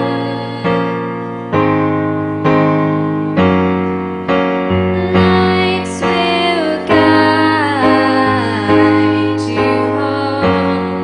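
Live song performance: piano chords struck evenly about once a second, with a singer holding long notes that slide down in pitch in the middle.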